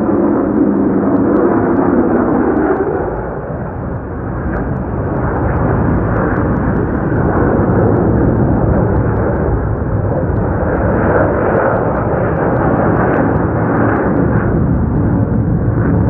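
Military fighter jet roaring overhead: a loud, steady rumble that dips slightly about three to four seconds in, then swells again.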